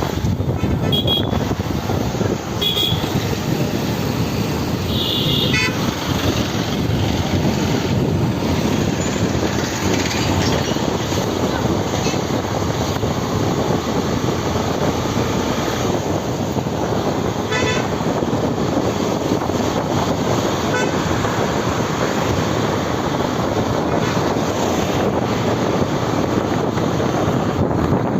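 Steady rush of wind and traffic noise heard from a moving motorbike, with a few short vehicle horn toots in the first several seconds.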